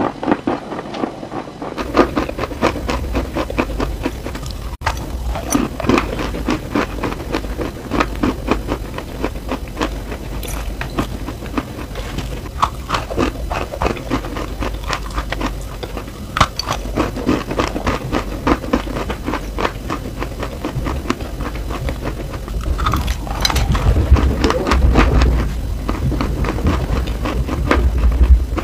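Close-miked crunching and chewing of edible chalk: a dense run of short, dry crackling bites, over a steady low hum.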